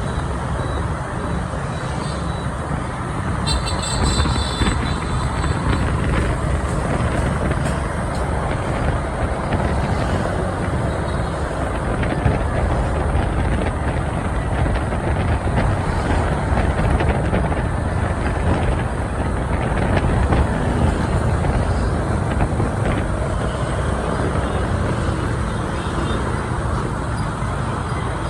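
Steady motorbike and city-traffic noise heard from a scooter riding through busy streets, with engines and road noise all around. A brief high-pitched tone sounds about four seconds in.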